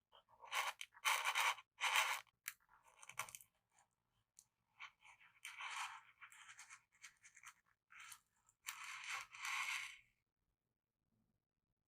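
Close-miked ASMR scraping and scratching strokes in short bursts of about half a second, several in quick succession at first, then a sparser run.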